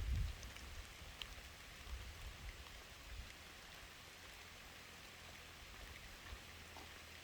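Faint steady hiss with a few small ticks.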